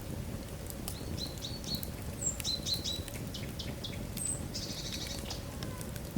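Wood fire burning in a fireplace: a steady low rumble with scattered crackles and pops. From about one to five seconds in, a run of short high chirping notes and a brief trill stand out as the loudest sounds.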